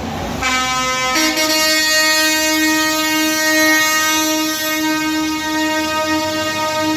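Truck air horn sounding one long held blast. It starts about half a second in, steps up to a higher pitch about a second in, and then holds steady.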